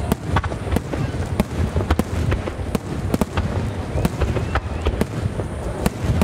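A large rapid-fire starmine fireworks display: aerial shells bursting several times a second in irregular, overlapping bangs over a continuous low rumble.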